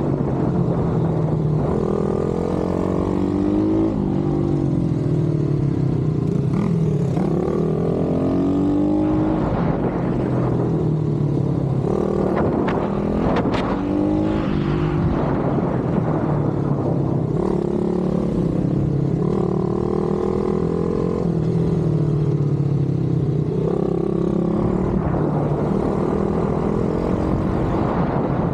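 Pit bike engine being revved hard and eased off again and again, its pitch climbing and dropping every couple of seconds as it accelerates, shifts and slows.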